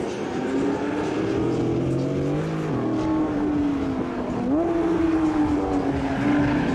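Porsche 911 GT3's naturally aspirated flat-six at high revs: its pitch climbs, drops suddenly about a third of the way in, sags slowly, then jumps sharply back up about two-thirds of the way through.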